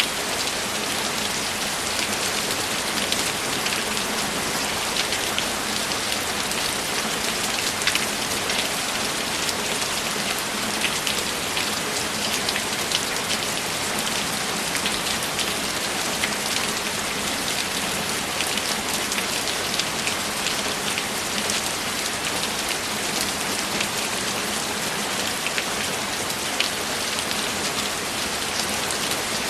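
Steady heavy rain, a continuous hiss with many distinct drops pattering on a surface.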